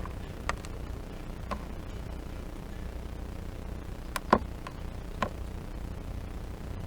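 A bird's beak tapping and pecking at food on a hard window sill: a handful of sharp, irregular taps, with a quick cluster of three a little past the middle.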